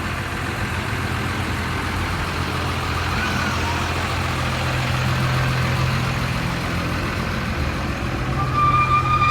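A vehicle engine running steadily at idle, a low even hum. Near the end a short steady high tone sounds over it for about a second.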